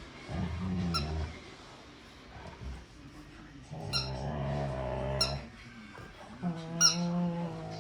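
A dog makes three drawn-out low grumbling vocalisations while playing with a toy. Each lasts a second or two, with short high squeaks among them.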